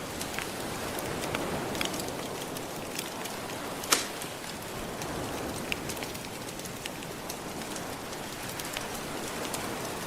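Crackling wood fire, with scattered small pops and one louder pop about four seconds in, over a steady soft wash of gentle ocean waves.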